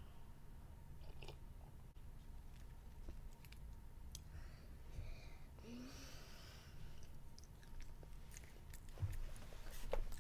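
A child chewing candy with his mouth, faint wet mouth clicks scattered throughout and a short breathy noise around the middle.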